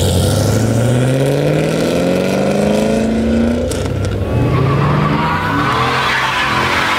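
Chevrolet Camaro's engine accelerating hard away, its pitch climbing steadily for about three and a half seconds. After a break, another engine runs and tyres begin to squeal near the end.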